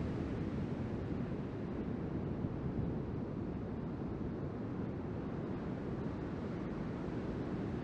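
Wind buffeting the microphone in a steady low rumble, mixed with the wash of ocean surf.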